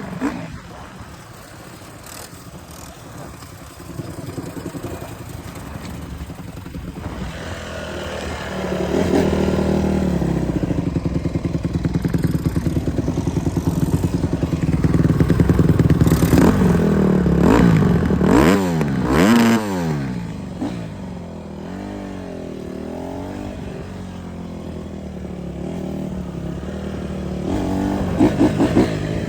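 Dirt bike engine under way, its pitch climbing and falling as the throttle is worked. It grows louder about a third of the way in, gives several quick rev rises and drops a little past the middle, then settles to a steadier drone.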